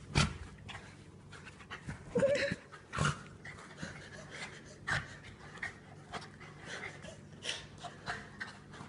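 Jack Russell terrier panting hard and sneezing several times in a sneezing fit, the sneezes coming as sharp loud bursts a couple of seconds apart.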